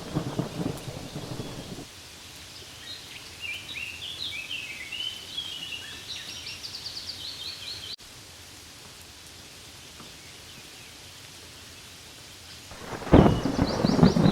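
Rain falling on leaves, dense and crackling for the first two seconds, then a softer steady patter with high chirps over it. About a second before the end, a sudden loud low rumble of thunder breaks in.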